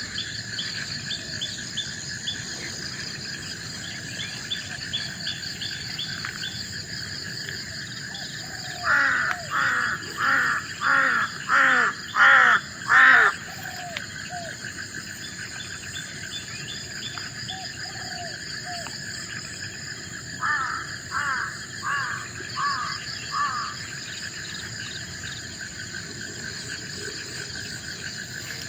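Steady chorus of forest insects, crickets or cicadas, drones throughout. About nine seconds in, a bird gives a run of seven loud calls a little under a second apart, each louder than the last, and later calls again five times, more faintly.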